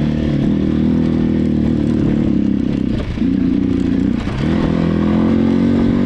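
Motorcycle engine running hard under throttle, with the revs dropping briefly twice (about three and four seconds in) and climbing again, as in shifting or easing off and back on the gas.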